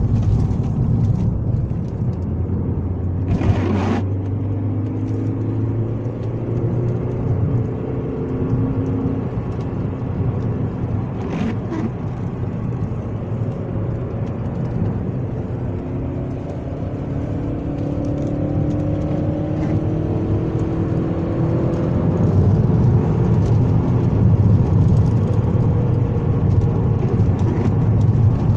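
Alfa Romeo Spider 916's 2.0 16v Twin Spark four-cylinder engine running, its pitch rising and falling several times as the revs change. A brief sharp knock comes about three and a half seconds in.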